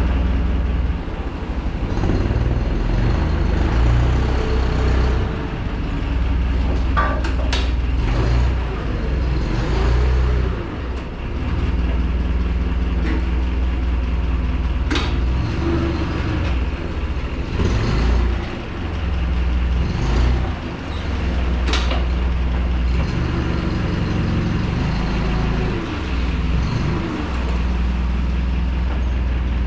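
A motor vehicle's engine running with a steady deep rumble, its pitch rising and falling now and then, with a few sharp clicks and knocks.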